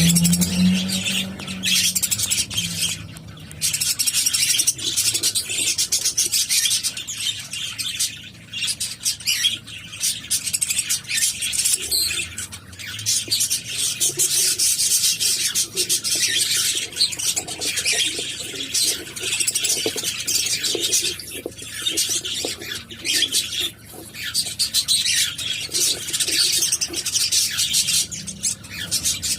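Cockatiels giving a dense, raspy chattering of short high calls, broken by brief pauses.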